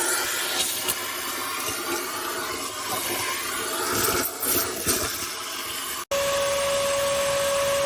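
Uneven rushing noise with scattered knocks and rattles. After an abrupt cut about six seconds in, the motor of a Kärcher WD 2 Plus wet & dry vacuum runs with a steady whine.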